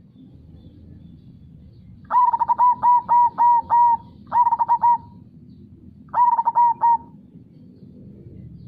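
Zebra dove (perkutut) cooing in three phrases of quick repeated notes, the first phrase the longest, about two, four and six seconds in.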